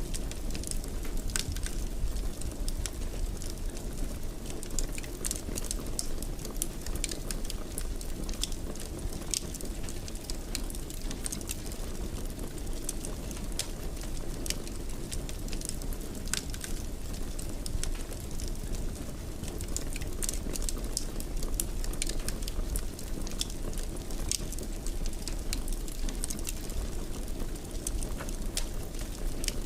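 Wood fire crackling in a fireplace: a steady low rumble of burning with frequent, irregular pops and snaps.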